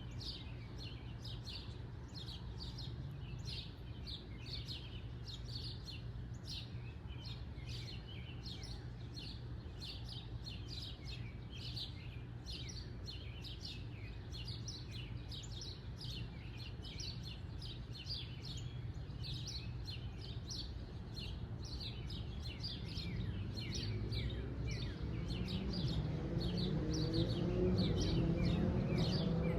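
Backyard birds chirping in short, rapid notes, two or three a second, over a low steady background hum. A low rumble grows louder over the last several seconds.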